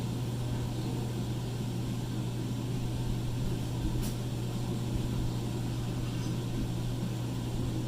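A forge running with a steady low hum and hiss, with a single sharp click about four seconds in.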